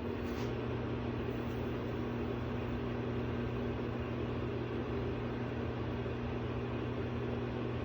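Microwave oven running on a short timed cycle: a steady low electrical hum with the fan's whoosh, heating pieces of fresh-cut onion.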